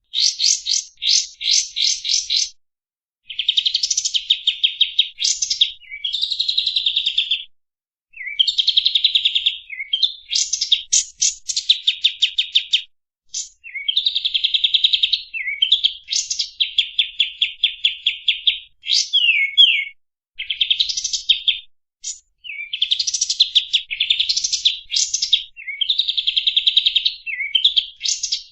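Kapas tembak bird singing: fast rattling trills and quick chirp series in phrases of one to three seconds, separated by short pauses, some phrases opening with a short upward-sweeping note.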